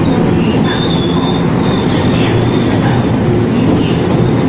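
Taiwan Railway train running by, a loud steady rumble of wheels on track with a thin high squeal coming and going in the first couple of seconds.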